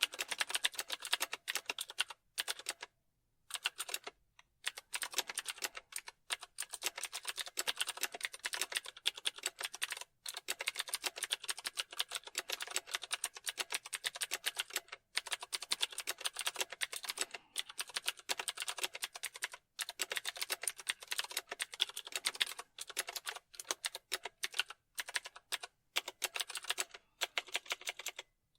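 Computer keyboard being typed on in fast, continuous runs of key clicks, broken by several short pauses.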